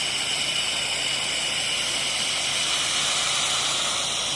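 8 GPM pressure washer spraying through a wide fan tip: a steady hiss of water spray with a high whine over it.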